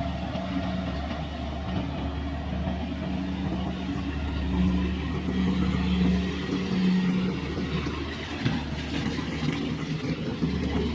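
Kubota rice combine harvester running steadily in the paddy, a continuous engine hum with a low steady drone that gets a little louder about halfway through.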